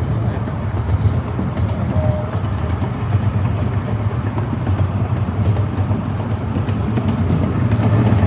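A miniature amusement-park train running along its track, heard from aboard as a steady low rumble with a clattering, noisy haze over it.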